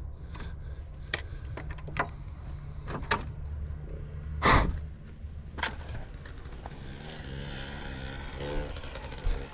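Dirt bike engine idling steadily, with a series of sharp clicks and knocks and one louder thump about halfway through.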